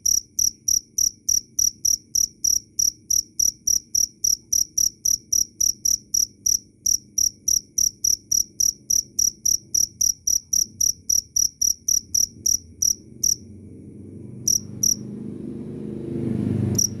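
A cricket chirping loudly and clearly in short high-pitched pulses, about three or four a second, that stop about 13 seconds in and give way to a few scattered chirps. A low rumbling noise swells toward the end.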